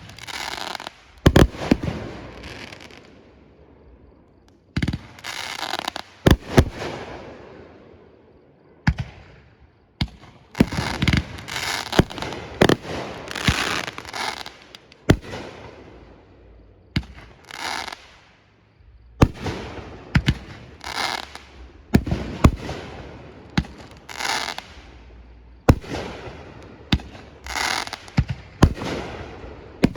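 Aerial fireworks shells bursting in quick succession, a sharp bang every second or two, several followed by crackling or hissing trails.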